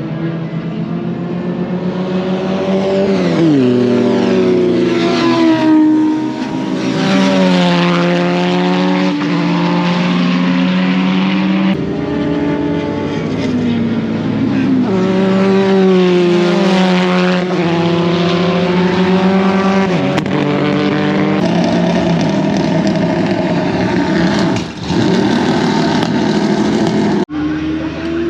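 Open-wheel race sports car engine heard from on board at full racing pace. The revs climb hard through each gear and drop at each shift, over and over, as the car accelerates, brakes and powers out of corners.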